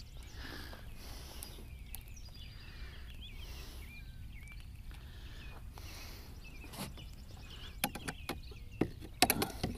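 Birds chirping, a short call repeating about once a second over quiet outdoor ambience. Near the end come a few sharp clicks and knocks as a caught bass and the rod are handled in the boat.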